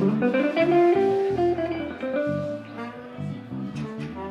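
Live band music: a bluesy guitar phrase with a bending note near the start, over changing bass notes.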